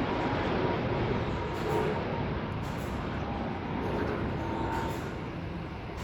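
Jet airliner engine noise: a steady broad rumble and rush that slowly fades.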